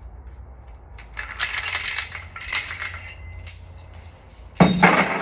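Metal engine parts and tools clinking and clattering as a Honda F22C engine's top end is taken apart, in several bursts, with a single sharp click in the middle and the loudest clatter near the end.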